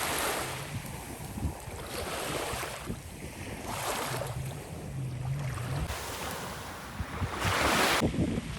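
Sea waves washing in repeated surges every second or two, the strongest one near the end, with wind buffeting the microphone.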